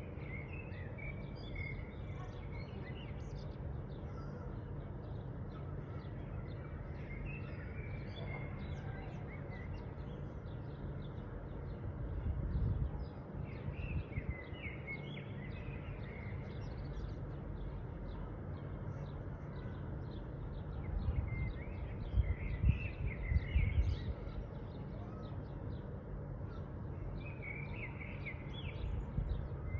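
Small birds chirping and calling repeatedly over a steady low background noise, with a couple of louder low rumbles partway through.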